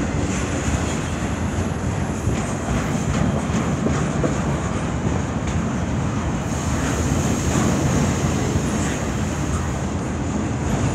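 CN freight train's cars, double-stacked container well cars and then autoracks, rolling steadily past: a continuous rumble of steel wheels on rail with a few faint clicks.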